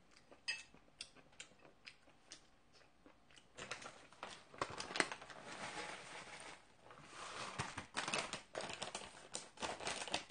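Close-miked eating sounds: a person chewing and smacking. A few sharp clicks come first, then from about three and a half seconds in a dense run of clicky chewing noise.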